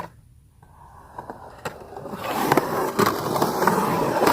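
A skateboard's wheels rolling on a ramp, with a sharp knock at the start as it is set off. The rolling gets louder from about two seconds in as the board picks up speed, with a few short clacks along the way.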